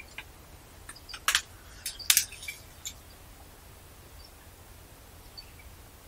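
Wild birds giving short, scattered chirps, with a burst of loud, sharp clicking sounds between about one and three seconds in.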